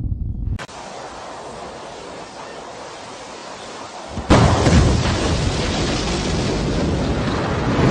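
Rocket launch: a quieter, even hiss, then about four seconds in a sudden loud roar of rocket engines that keeps going.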